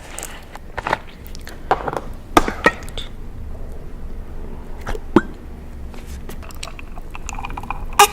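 Close-miked chewing of food, with about six short, sharp mouth sounds scattered through and quieter stretches between, over a low steady hum.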